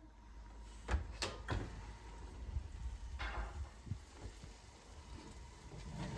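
Household handling sounds: three quick sharp knocks about a second in, then a short scraping sound a couple of seconds later, like a door or cupboard being worked.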